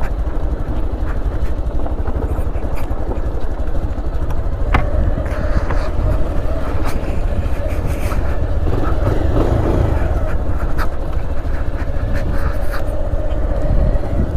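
Motorcycle engine running while riding over a rough gravel road, with scattered knocks and clicks. A steady engine note comes in about five seconds in.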